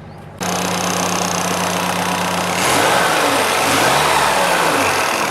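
Fiat Cinquecento engine, freshly serviced with new oil and spark plugs, comes in suddenly about half a second in and runs with a steady hum. From about two and a half seconds it is revved up and down several times, sounding good.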